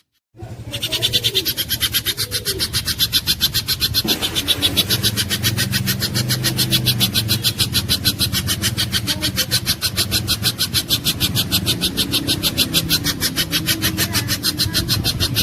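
A pijantung gunung (spiderhunter) calling: a rapid, even, unbroken series of sharp, high notes, starting abruptly about half a second in, over a low steady hum.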